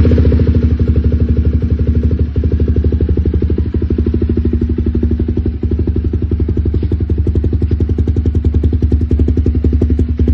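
Honda CBR250R's single-cylinder four-stroke engine idling steadily through a Mojo aftermarket exhaust, a loud, even rapid pulse with no revving.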